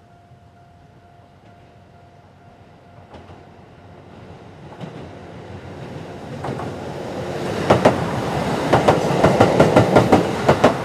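KiYa 95 series diesel track-inspection train approaching and passing close by. Its running noise builds over several seconds. As the cars go past, the wheels clack quickly and unevenly over the rail joints.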